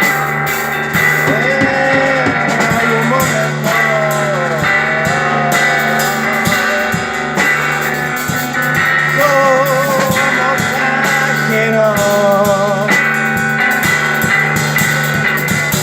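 Live psychedelic rock played on electric guitar and drum kit, with a lead melody that bends and wavers in pitch over a steady low drone and regular drum hits.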